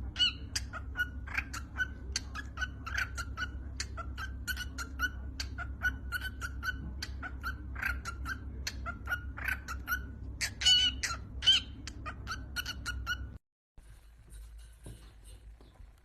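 Pet parrot chirping and whistling in a rapid run of short, repeated calls. The calls cut off abruptly about thirteen seconds in, leaving only faint sound.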